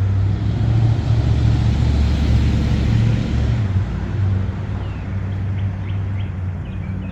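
Steady low rumble that swells over the first few seconds and then eases off, with a few faint high chirps near the end.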